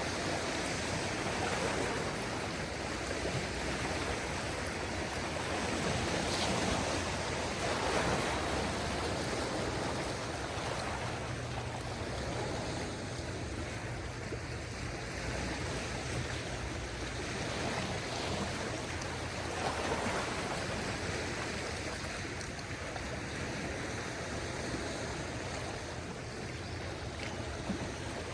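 Small waves of a calm sea washing onto the shore, a steady wash of water that swells and fades every several seconds.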